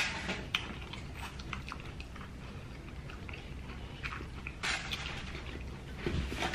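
Close-miked chewing and biting of crunchy fried chicken legs, with many small crunches and mouth clicks and one louder burst of noise about two-thirds of the way in.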